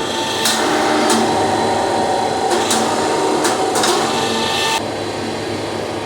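Hammer blows on hot steel, about seven sharp ringing strikes at uneven spacing, some in quick pairs, over a steady workshop machine hum and rushing noise that drops away about three-quarters of the way through.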